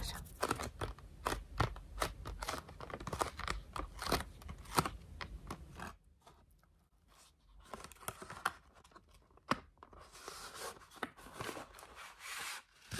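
ASMR hand sounds close to the microphone: quick crisp clicks and crackles for about six seconds, then quieter, with a soft rubbing hiss near the end.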